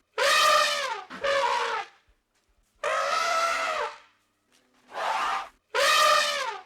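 An animal's loud, brassy calls: five separate calls of under a second to about a second each, each dropping in pitch at its end.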